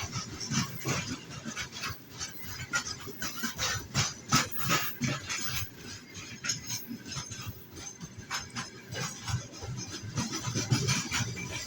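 Freight train wagons rolling past on the rails, a continuous run of irregular wheel knocks and clicks over a rubbing, scraping noise.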